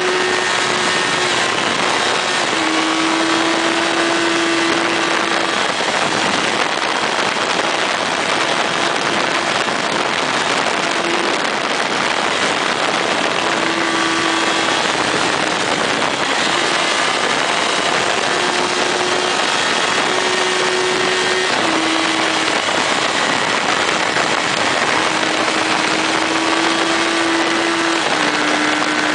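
Motorcycle riding at speed: the engine runs steadily, its note stepping between a few pitches as the throttle changes, under a loud rush of wind.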